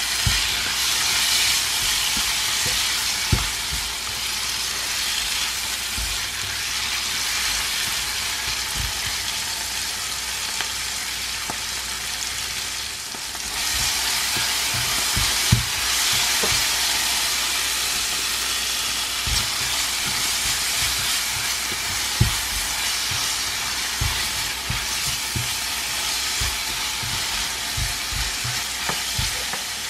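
Chopped tomato, chilli, garlic and onion sizzling in oil in a nonstick wok, stirred with a plastic spatula that knocks against the pan now and then. The sizzle drops briefly about halfway through, then comes back stronger.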